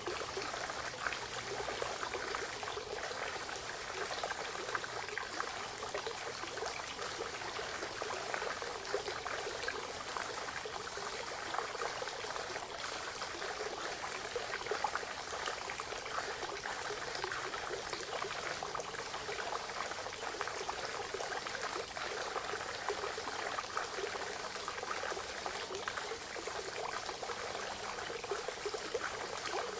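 Spring water trickling and pouring steadily into a forest pond, a continuous run of small splashes.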